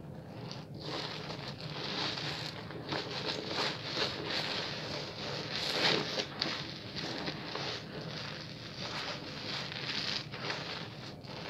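Bar soap being lathered at a fairly fast pace: continuous wet rubbing dense with small clicks, swelling and easing with the strokes.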